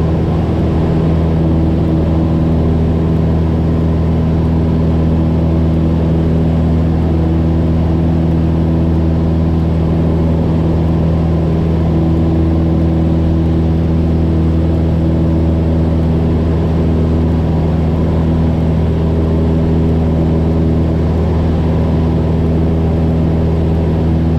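Cessna 172's piston engine and propeller running steadily at full power in the climb just after takeoff: an even, unchanging drone.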